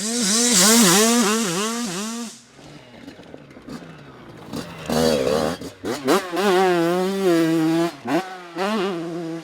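Dirt bike engine revving hard with quick on-off throttle blips for about two seconds, dying down, then another hard run from about halfway with the pitch climbing and dropping through the gears.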